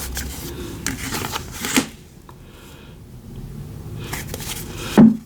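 Tarot cards being shuffled and handled: soft rustling with a few sharp card snaps, the loudest near the end.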